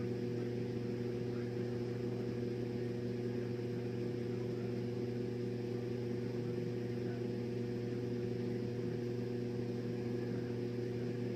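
A steady low hum made of several fixed tones, unchanging throughout, like background electrical or appliance hum.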